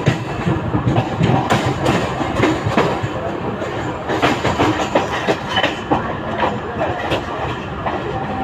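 Mumbai suburban EMU local train running, its wheels clattering over the rail joints in a dense, irregular series of knocks over a steady rumble.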